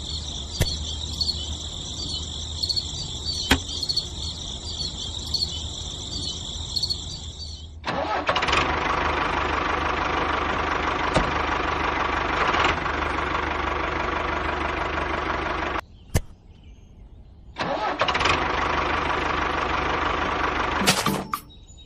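A small motor running, in pieces cut together: a high whine for about the first eight seconds, then a fuller, steady running sound that stops abruptly about sixteen seconds in and starts again a moment later.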